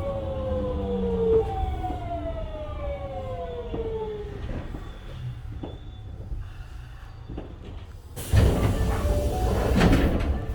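Osaka Metro 66 series train's GTO inverter whining through several tones that fall steadily in pitch as the train brakes into a station, over the rumble of the running gear. About eight seconds in, a loud rush of noise starts as the sliding doors open.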